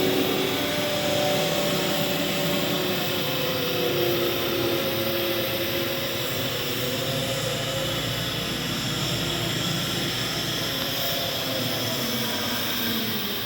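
Street-cleaning water truck's engine running steadily, with a constant hiss of spraying water over it. The engine note drifts slowly in pitch.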